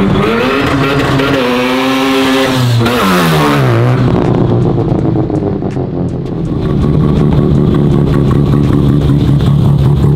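Built Mazda RX-7's engine revving hard as the car accelerates past, its pitch climbing and then falling steeply about three to four seconds in. It then runs at low speed with a steady, uneven note as the car rolls up close.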